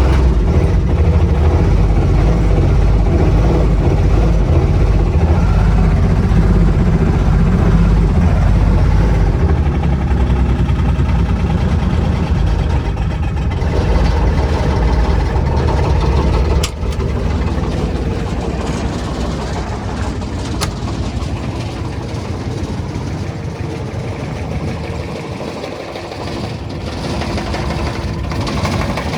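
Intimidator UTV's diesel engine running at idle, a loud low rumble that steps down in level with a sharp click about seventeen seconds in.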